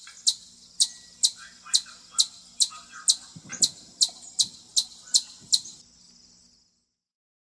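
Chipmunk chipping: a steady series of short, high-pitched chips, about two a second, that stops a little before the end. This is the repeated 'chip' call that a chipmunk gives as an alarm.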